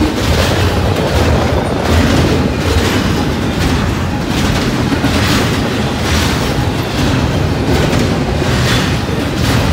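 Double-stack intermodal well cars rolling past a grade crossing: a loud, steady rumble of steel wheels on rail, with repeated clacks as the wheels pass over the joints.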